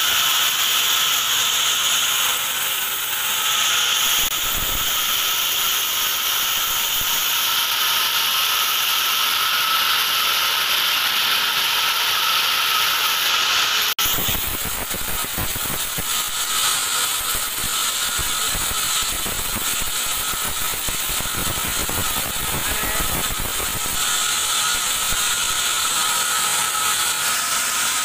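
Band sawmill blade cutting through a teak log, a steady high-pitched rasping hiss, with an abrupt change about halfway through.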